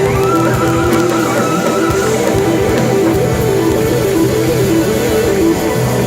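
Live band music with a guitar, keyboard, bass and drums. In the first two seconds a high note is held with a wavering vibrato over the band.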